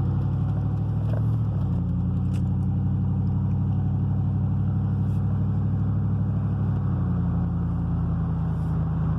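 A car engine running steadily, its low note shifting slightly about a second and a half in and again about seven seconds in.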